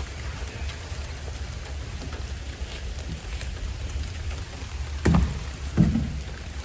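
A steady hiss of outdoor noise over a low rumble, with two dull thumps near the end, under a second apart.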